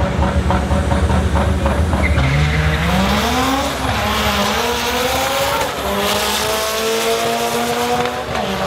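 A car engine at full throttle in a quarter-mile drag run, accelerating through the gears. Its pitch climbs steadily and drops back at each gear change, three times.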